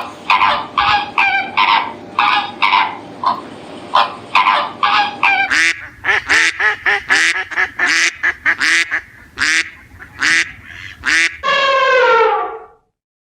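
Bird calls repeated rapidly, several a second, followed near the end by one longer call that falls in pitch and cuts off abruptly.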